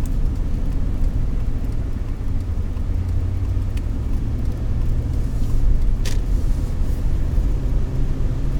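Car driving, heard from inside the cabin: a steady low rumble of engine and road noise, with one short click about six seconds in.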